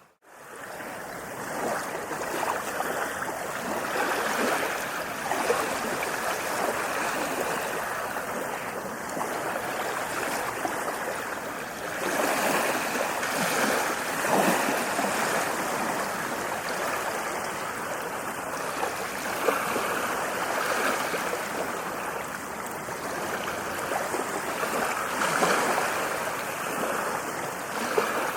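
Ocean surf breaking and washing on a beach: a continuous rushing wash that swells louder twice, about halfway through and again near the end. It fades in from a momentary gap at the very start.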